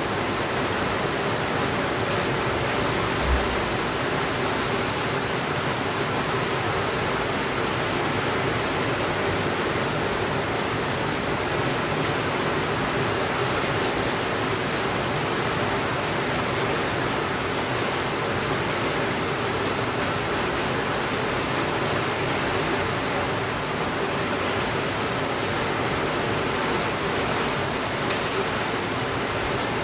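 Steady rainfall, an even unbroken hiss with no thunder. There is one brief low thump a few seconds in and a faint click near the end.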